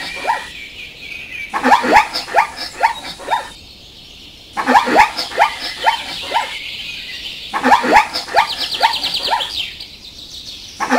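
Zebra calling in repeated bouts of about six short calls, each falling in pitch, a new bout every three seconds or so.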